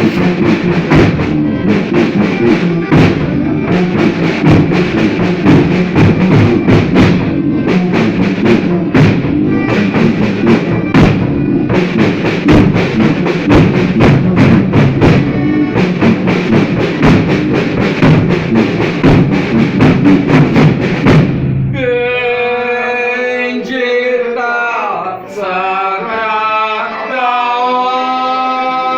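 Folia band playing with a dense, steady drum beat; about two-thirds of the way through the drumming stops and long held sung notes begin.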